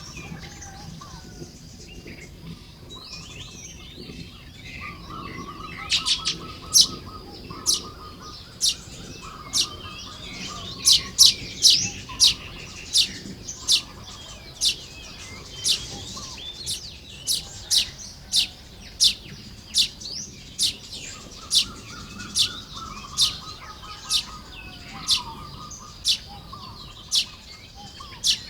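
Baya weavers calling at their nesting colony. From about six seconds in come sharp, loud chirps, one or two a second, and twice a buzzy, rattling trill is heard over the chatter.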